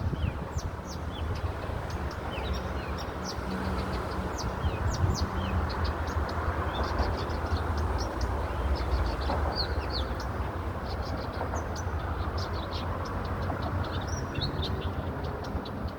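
Small songbirds chirping and twittering in many short, high notes, over a steady low rumble of city background noise.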